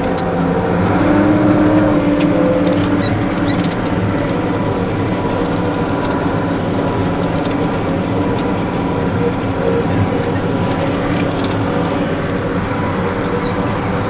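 Fiat tractor engine running steadily, a little louder for a couple of seconds near the start.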